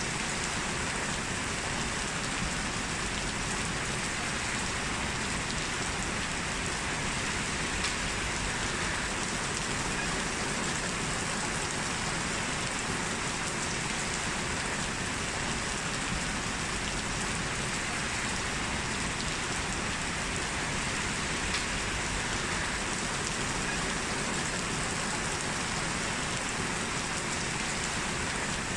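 Heavy rain falling steadily and evenly on hard surfaces.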